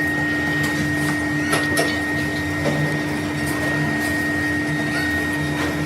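Machine tool running with a steady two-tone whine over a mechanical hum, with a few light clicks.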